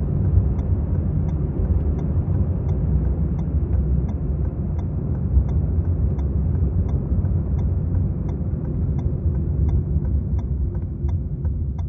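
Maruti Suzuki Swift's engine and road noise while driving, a steady low rumble, with a faint regular ticking about three times a second.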